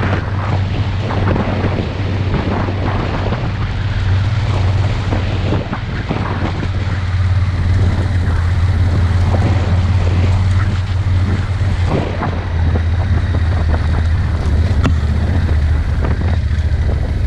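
A vehicle's engine running with a steady low drone while driving, with wind noise on the microphone and scattered knocks.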